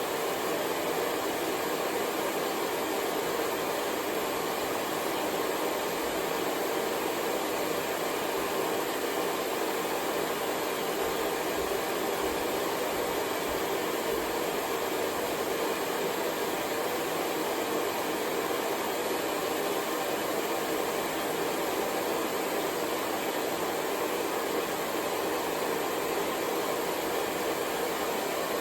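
Hair dryer running continuously, an even rush of blown air with no change in pitch or level.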